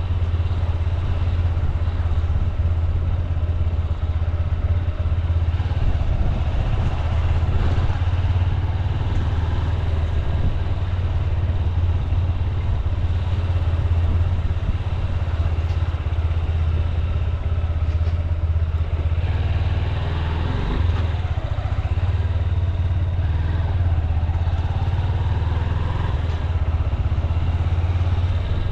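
Honda CB200X's single-cylinder engine running steadily as the motorcycle rides at an easy pace through town, with a few faint rises in pitch in the second half.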